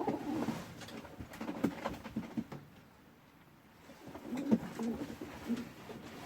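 Domestic pigeons cooing, low and soft, with a few light clicks among them; the cooing dies down briefly around the middle.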